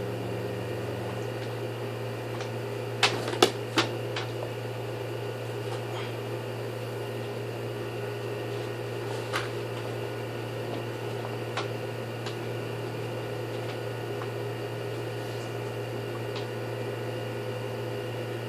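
Steady electric hum, with a few sharp clicks and knocks about three to four seconds in.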